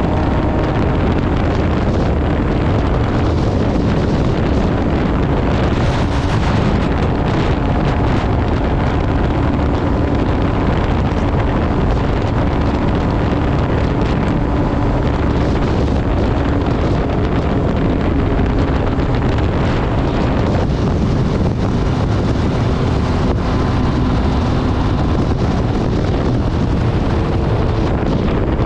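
MV Agusta Brutale 800 RR's three-cylinder engine running through an SC Project exhaust while riding, its note held fairly steady, under heavy wind noise on the microphone.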